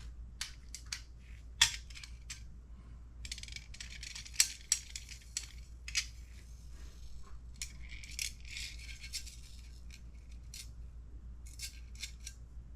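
Small hard parts clicking and rattling as they are handled and set down, with a couple of longer stretches of rustling between the sharp clicks.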